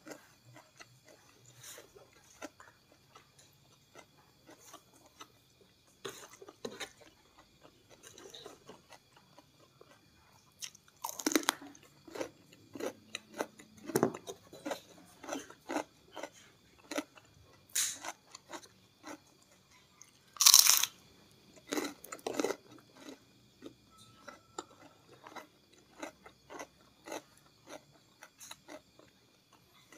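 Close-miked chewing of crunchy food, with irregular crisp crunches and wet mouth sounds. The loudest crunchy bites come a little after ten seconds and again around twenty seconds in.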